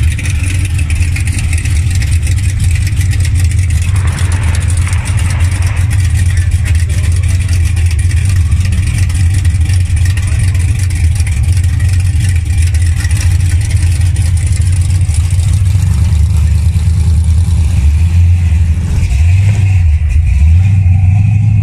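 Classic American V8 car engine running at idle close by, loud and steady, with a short rev that rises and drops back near the end.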